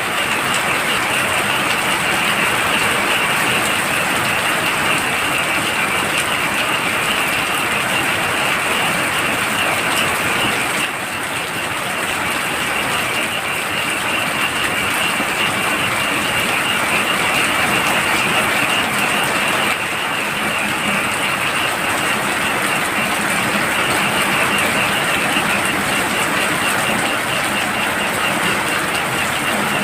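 Heavy rain falling steadily at night, with a dense chorus of frogs calling continuously through it.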